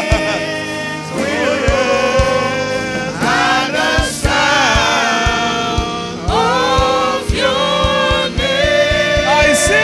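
A choir and congregation singing a gospel worship song over a band, with a steady drum beat.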